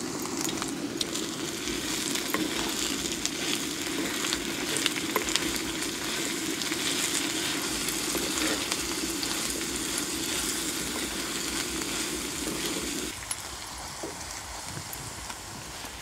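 Chopped onions, green chillies and spring onions sizzling in hot oil in a black earthen pot, stirred with a spatula, with small scraping clicks. The sizzle falls quieter about three seconds before the end.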